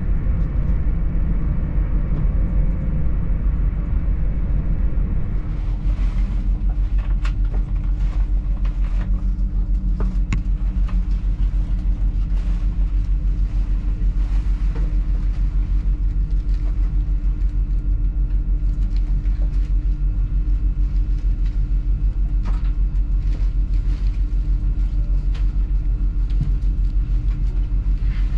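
Cabin noise of a Class 800 Hitachi train running on the rails: a steady low rumble with a constant hum. From about six seconds in, sharper clicks and knocks from the wheels on the track join it as the train slows into a station.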